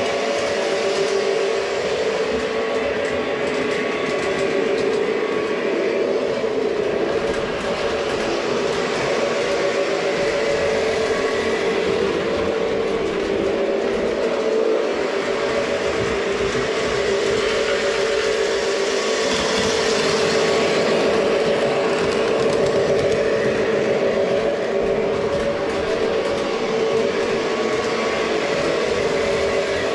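Lionel F3 diesel model train with RailSounds running on track: its speaker plays a steady diesel engine sound over the running of the locomotive.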